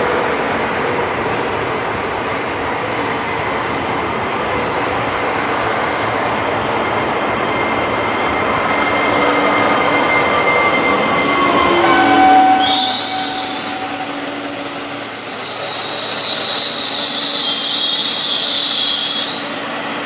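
Trenitalia ETR104 'Pop' electric multiple unit running past, its running noise carrying a whine that falls in pitch. From about twelve seconds in, a loud, high-pitched wheel squeal sets in and holds for about seven seconds before cutting off near the end.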